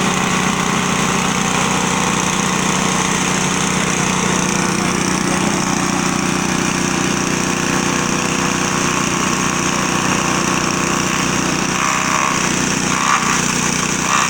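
Grass and straw chopper machine running steadily with a constant engine hum.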